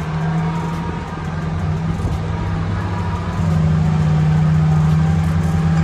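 A 4x4's engine running steadily under load on a trail. About three and a half seconds in it gets louder and rises slightly in pitch as it pulls harder.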